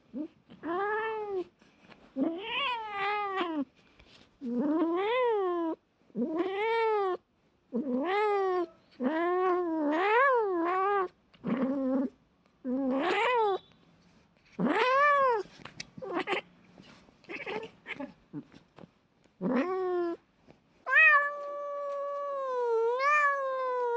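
Cat meowing over and over in short calls that rise and fall in pitch, separated by short pauses, then one long drawn-out yowl that wavers slightly for the last few seconds.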